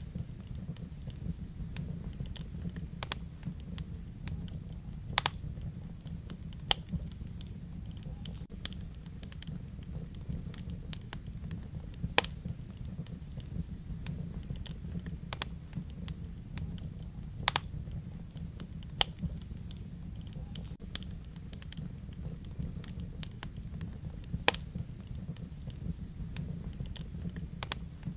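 Wood fire burning in a fireplace: a steady low rumble of flame under irregular crackling, with a handful of louder sharp pops among many small ticks.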